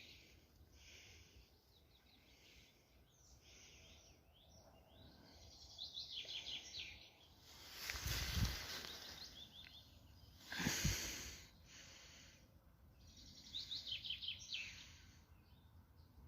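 Songbirds singing short phrases of quick repeated notes over faint outdoor background noise. Two brief surges of rustling noise come about 8 and 11 seconds in.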